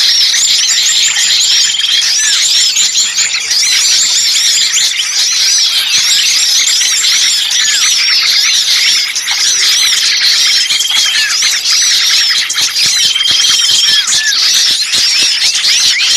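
Bird-lure recording of many small songbirds calling in a noisy commotion at once: a dense, continuous mass of rapid high-pitched chirps and squeals, with a level trill breaking in every few seconds. It is the agitated mobbing kind of chorus used to pull wild birds in to a trap.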